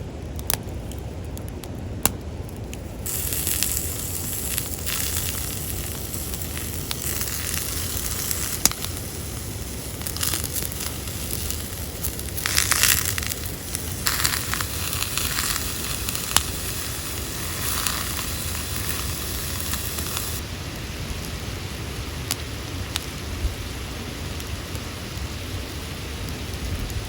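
Fresh lamb sizzling as it cooks, starting suddenly about three seconds in, with sharp pops of fat. The sizzle swells briefly near the middle and eases off later.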